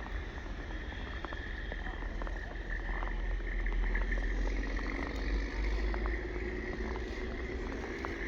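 Outdoor winter ambience: wind rumbling on the microphone, scattered soft crunching steps in snow, and a steady high-pitched hum in the background.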